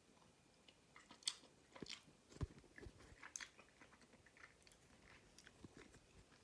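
A person chewing a soft, dense protein bar with the mouth close to the microphone: faint, scattered wet clicks and smacks, a few louder ones in the first half.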